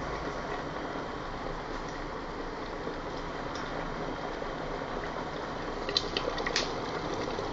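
Electric kettle with its water at a rolling boil: a steady rushing, bubbling noise. A few sharp clicks come about six seconds in.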